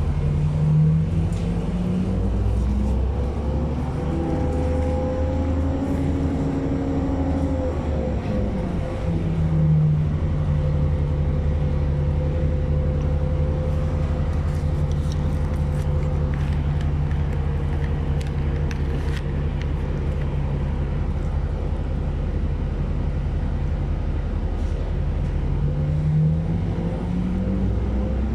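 City bus engine and drivetrain heard from inside the passenger cabin, a steady hum. The pitch rises about a second in as the bus speeds up, drops around eight seconds in, holds steady through the middle and climbs again near the end.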